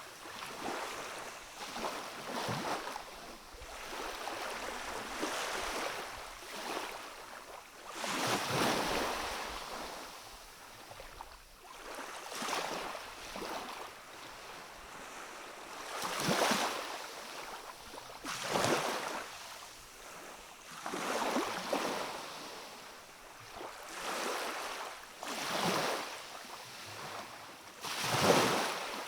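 Small waves of a calm sea washing in against a rocky shore, a soft surge every two seconds or so, with larger swells about 8, 16 and 28 seconds in.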